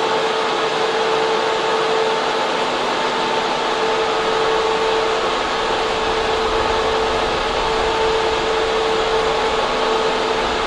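Server room in a data center: cooling fans and air handling running with a loud, steady rush of air and a constant hum at a fixed pitch.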